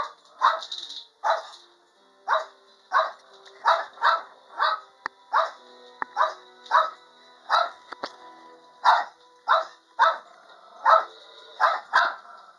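Dog barking over and over, about one and a half barks a second, with a few brief pauses.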